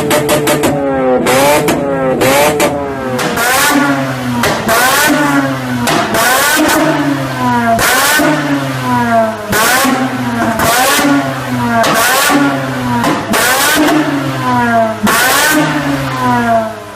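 Mazda RX-8's two-rotor rotary engine revved hard over and over, its pitch climbing and then falling back about once a second, with a quick run of crackles in the first couple of seconds.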